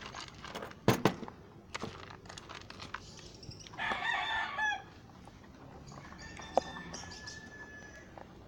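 A game fowl rooster crowing once, a short call of about a second near the middle. A couple of sharp knocks come about a second in, with fainter clatter around them.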